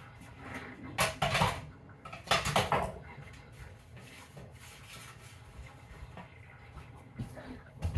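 Dishes and cutlery clattering as they are handled, in two short bursts about a second in and just after two seconds, then a quieter stretch with a light knock near the end.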